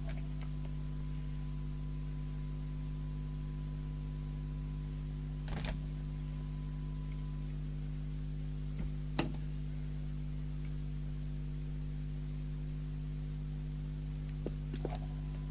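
Steady electrical hum from bench test equipment, with a faint high steady test tone that stops about halfway through and returns near the end. A few light clicks and knocks of tools being handled come about 5 s, 9 s and 15 s in.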